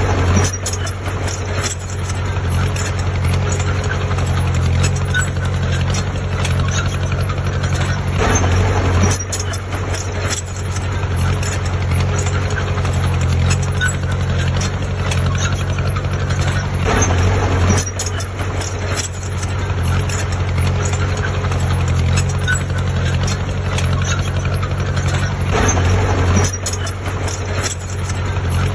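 Heavy diesel earthmoving machine engine running steadily, with rapid metallic clicking and clanking over it. The engine swells louder about every eight or nine seconds.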